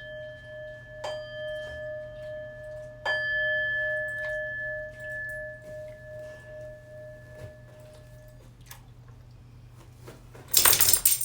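A bell struck twice, about two seconds apart, each time ringing on with a clear, slowly fading tone, typical of a singing bowl or meditation bell closing a practice. Near the end comes a brief, loud rattle.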